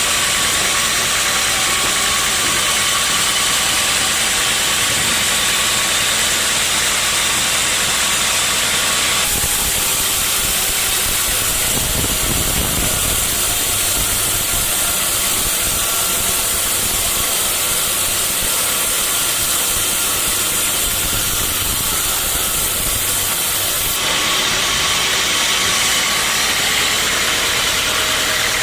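Sawmill machinery running steadily with a loud, hissing noise. The sound changes abruptly about nine seconds in and again near the end, with a brief low surge a few seconds after the first change.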